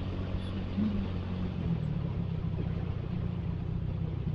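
Suzuki Satria FU motorcycle engine running steadily while riding, its pitch shifting slightly about a second and a half in, with wind and road noise.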